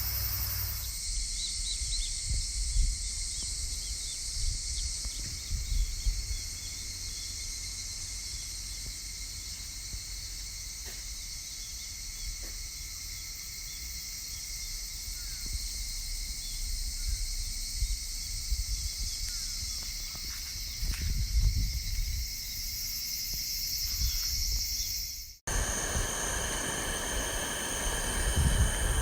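Outdoor ambience of insects chirring steadily in a high register, over irregular low rumbles. The sound drops out briefly near the end and comes back as a different steady insect ambience.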